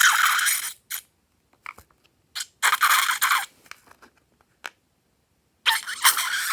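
Crackling, scraping handling noises from slime-making materials being worked by hand, in three bursts with short clicks between them.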